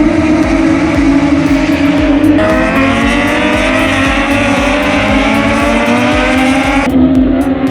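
MotoGP race motorcycles' engines screaming at high revs on track, one engine note climbing in pitch as it accelerates over several seconds, then changing abruptly near the end as its pitch begins to fall.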